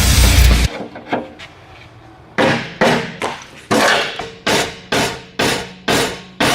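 Rock music cuts off under a second in, then after a couple of light taps a hammer starts striking steadily, about two to three ringing blows a second, knocking a piece of metal straighter.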